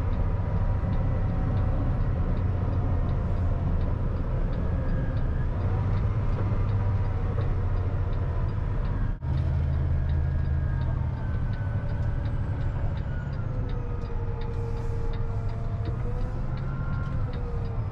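Concrete mixer truck's diesel engine running as the truck drives, heard from the cab, with a steady light ticking about two to three times a second. The engine's pitch slides down in the last few seconds as the truck slows.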